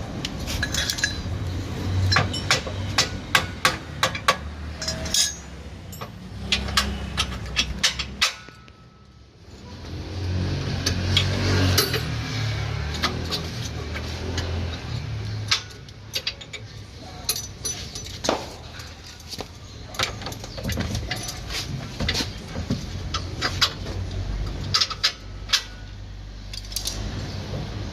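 Metal tools clinking and knocking on car suspension parts during underchassis repair: many sharp taps and clinks at an irregular pace over a low background hum.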